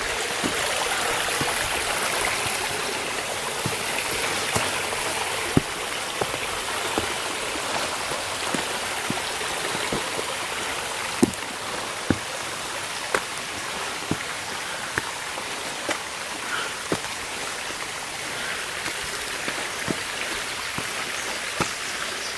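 A small mountain stream running steadily over rocks, with irregular footsteps tapping on steps and rock, a few of them sharper and louder.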